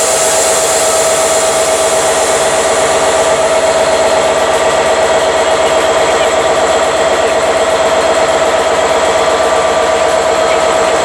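Train running close by: a loud, steady mechanical drone with a constant whine and a high hiss over a low pulsing beat. No horn sounds.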